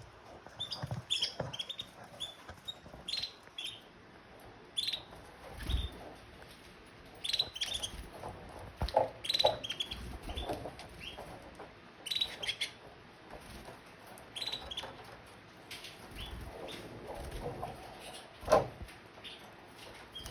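Domestic canaries in a cage giving short, high chirp calls in scattered clusters, with a few thumps, the loudest near the end.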